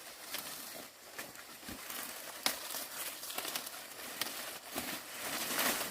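Dry corn leaves and stalks rustling and crackling as ears of corn are picked by hand, with a few sharp snaps, the sharpest about two and a half seconds in.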